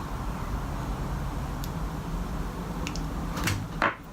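Small clicks and taps of fishing tackle being handled as a helicopter rig is pulled tight, with a sharper click near the end, over a steady low background hum.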